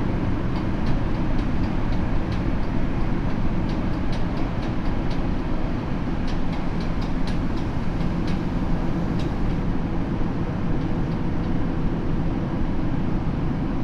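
Tokyo Metro 7000 series subway train running steadily between stations, with a steady rumble of wheels on rail and frequent small ticks.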